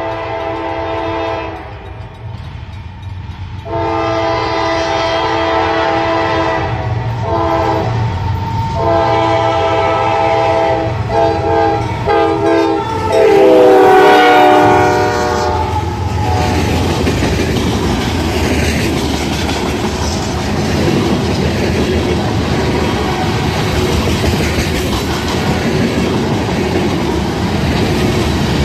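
Locomotive air horn blowing a long, long, short, long crossing sequence, the loudest last blast dropping in pitch as the engine passes close by. From about halfway through, the train's cars roll past with a steady rumble and wheels clattering over the track.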